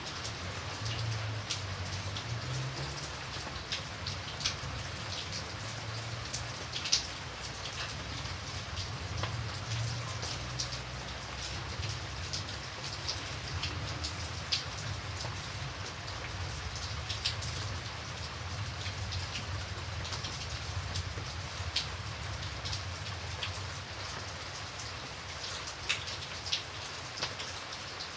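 Steady rain falling on a surface, with a constant hiss, a low rumble underneath and many close, sharp drips standing out.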